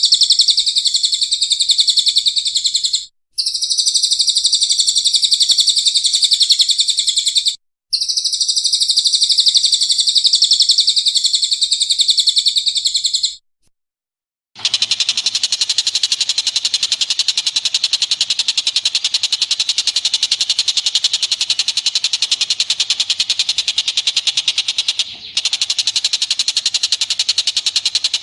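Recorded songbird song: a continuous, rapid high-pitched chatter in three long runs broken by short pauses, then after a second's silence a fuller, rougher continuous chatter with a brief dip near the end.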